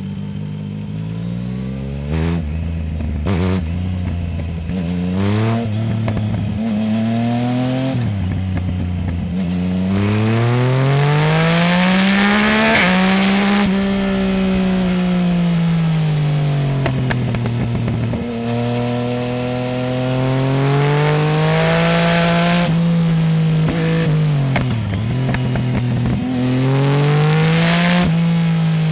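Yamaha Tracer 900 GT's three-cylinder engine through a full Roads Italia aftermarket exhaust, recorded from under the seat. It runs through a string of quick upshifts, each a short break in the engine note, then pulls hard up the revs and eases off again several times. A harsh rush of noise rides on top of the longest pulls.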